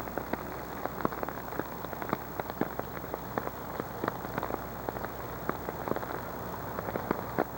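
Steady rain falling, with many separate drops striking hard surfaces close by as irregular sharp ticks.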